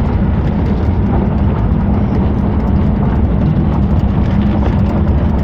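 Steady wind rush and road noise of a moving pickup truck, heard from its open bed: a loud, even, low roar with no distinct events.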